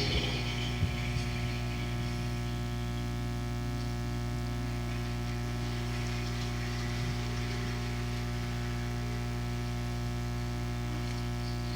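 Steady electrical mains hum in the audio feed. It is an even buzz made of many fixed pitches and never changes in pitch or loudness.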